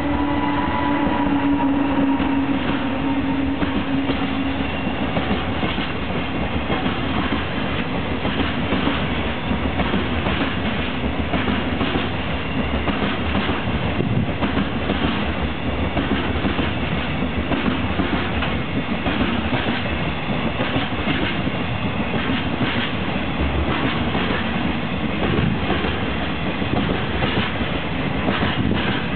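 Freight train rolling past behind an EF200 electric locomotive, its wagon wheels clicking steadily over the rail joints. A steady humming tone fades away in the first few seconds.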